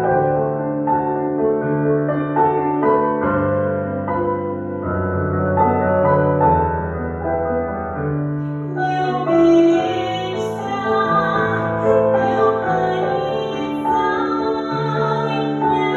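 A woman singing an aria with piano accompaniment. The piano plays alone at first, and the voice comes in about halfway through.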